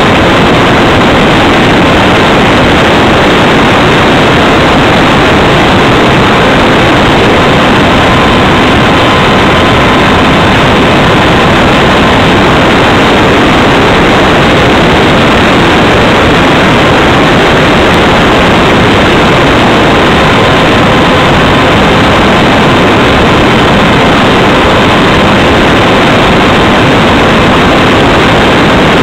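Loud, steady rush of wind over a wing-mounted camera on a Radjet 800 electric RC plane, with a faint steady whine from its motor and propeller running at constant speed.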